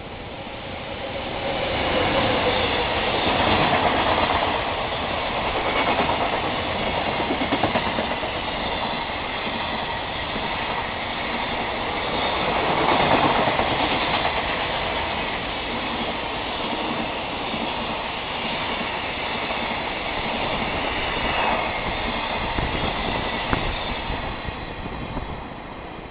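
Freight train hauled by an EF200 electric locomotive running through the station, its wagons' wheels clattering over the rail joints. It grows loud about two seconds in, swells several times as the wagons go by, and falls away near the end.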